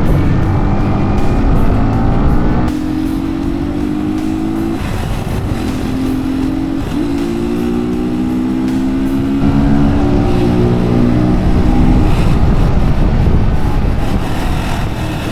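Single-cylinder dirt bike engine accelerating on the road: the revs climb within each gear and drop back at each upshift, several shifts in a row, with wind noise underneath.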